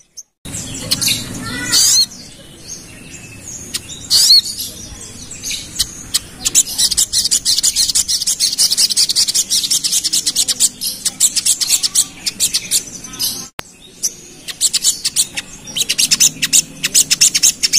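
Sogon, a small sunbird, singing fast: a few quick high whistled glides, then long rapid-fire runs of very high chattering notes, twice.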